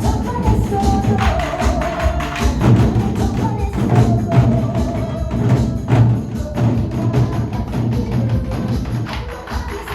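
Fusion nanta: fast, steady drum strokes on Korean barrel drums (moduk-buk) played over a recorded backing track that carries a melody.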